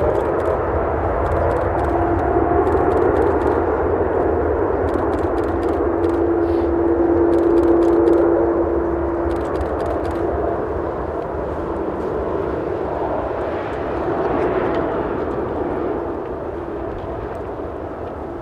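Boeing 777-300ER's GE90-115B turbofan engines at take-off power: a steady jet noise with a humming fan tone whose pitch rises a little early on. It is loudest about eight seconds in, then slowly fades as the aircraft moves away, over a low wind rumble on the microphone.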